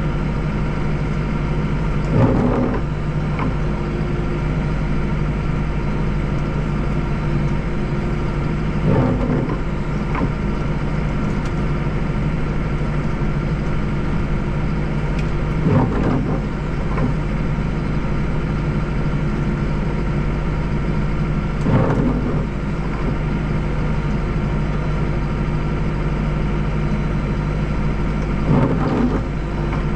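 Deutz 5120G tractor's diesel engine running steadily while working a front-mounted snowblower, with five brief knocks spaced roughly six to seven seconds apart.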